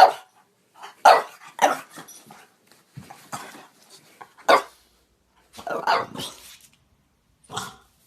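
French Bulldog barks: a string of about seven short, irregular barks, with a longer, drawn-out one about six seconds in.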